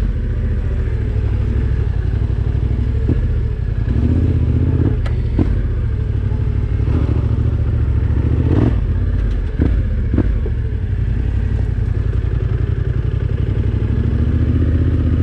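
Yamaha Ténéré 700 parallel-twin engine running at low, steady revs under trail riding, with several sharp knocks and rattles as the bike jolts over the rough, wet ground.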